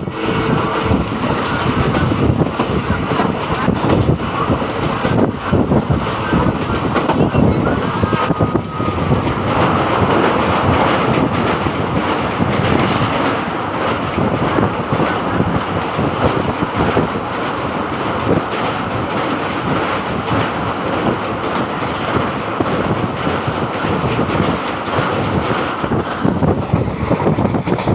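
Train running along the track: a continuous loud rumble of wheels on rails, with many quick clatters of wheels over rail joints.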